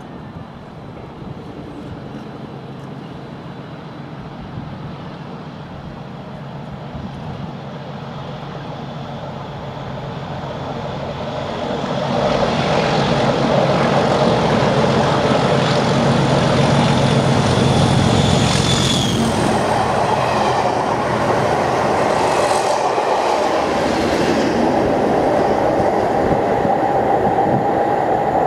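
A train passing close by, unseen: its rumble builds up and grows much louder about twelve seconds in, then stays loud, with a steady whine over it in the later part.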